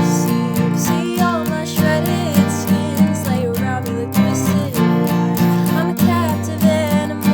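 Strummed acoustic guitar playing a song in a steady rhythm, with a wavering melody line carried above it.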